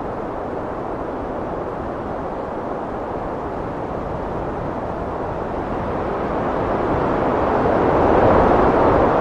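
Heavy wind blowing as a steady low rush, swelling into a stronger gust near the end.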